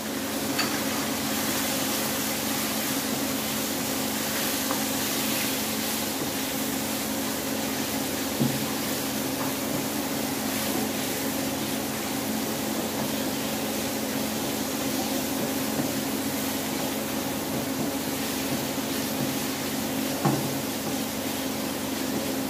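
Chicken, onion and spices sizzling in hot oil in a non-stick wok while being stirred with a silicone spatula: a steady frying hiss, with two light knocks of the spatula against the pan.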